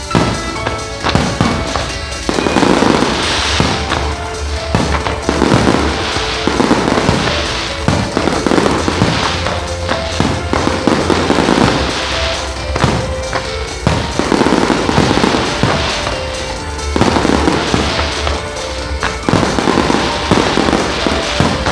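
Aerial fireworks shells bursting one after another, roughly one a second, with crackling between them, over a musical soundtrack.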